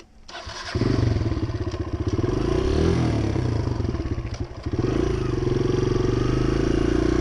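Dirt bike engine pulling away under throttle. It comes in loud within the first second, eases off between about three and five seconds in, then picks up again with a slowly rising pitch.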